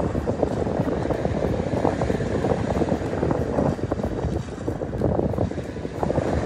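Wind buffeting the microphone in gusts, over the wash of surf breaking on a shingle beach around an inflatable boat.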